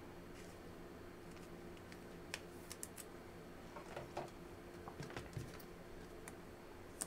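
Faint, scattered clicks and light taps of trading cards and their plastic holders being handled, over a low steady electrical hum.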